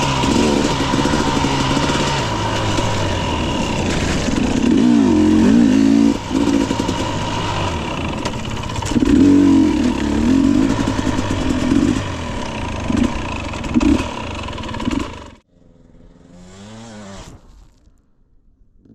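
Husqvarna TE 250i two-stroke dirt bike engine being ridden, its revs rising and falling again and again with the throttle. It cuts off abruptly about three-quarters of the way through, followed by a fainter short rise and fall in pitch and then quiet.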